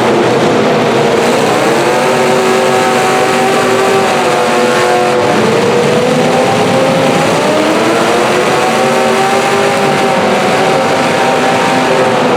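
Demolition derby cars' engines running and revving together, their pitches rising and falling, over a loud steady din.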